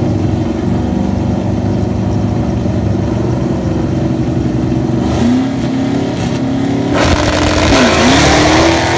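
Drag cars' engines running steadily at the line, then launching about five seconds in. The engine pitch climbs, drops sharply at a gear change near the end, and climbs again under a loud rush of noise.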